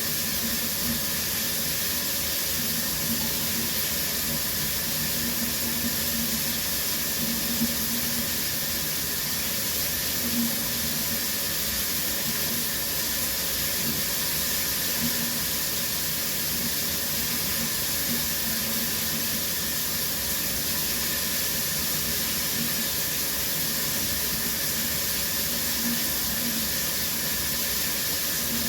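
Shower running: a steady hiss of water spraying and falling, with a couple of brief louder spatters.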